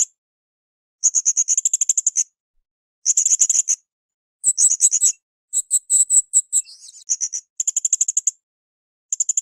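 Blue-crowned hanging parrot (srindit) calling: about seven short bursts of rapid, very high-pitched chattering chirps, each around a second or less, separated by brief silent gaps.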